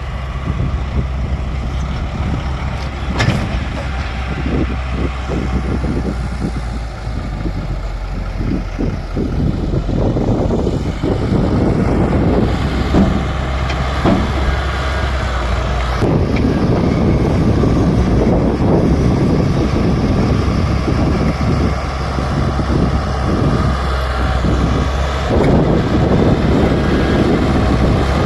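Bulldozer's diesel engine running steadily under load, a constant low drone, with irregular knocks and clatter over it; it gets a little louder about ten seconds in.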